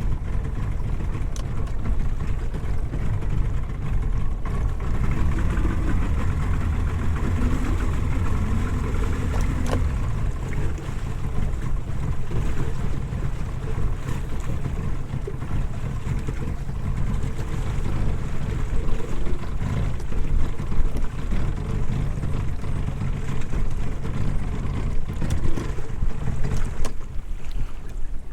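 Outboard motor running steadily, with a low rumble and a brief shift in pitch a few seconds in, mixed with wind and water noise.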